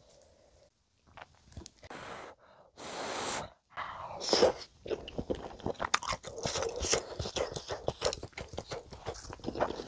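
Close-miked eating of spicy stir-fried chicken with melted cheese and udon noodles. About two seconds in come a couple of short airy sounds as the food is taken in, then steady wet chewing with many small irregular clicks and crunches.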